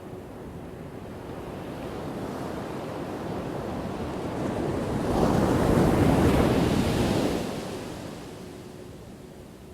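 Ocean waves crashing on a shore: the surf builds over a few seconds, one wave breaks loudest about halfway through, then washes back down.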